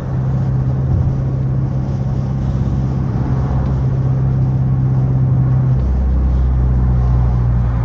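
Straight-piped Dodge Charger R/T's HEMI V8 exhaust droning steadily while cruising; about six seconds in, the note drops to a lower pitch.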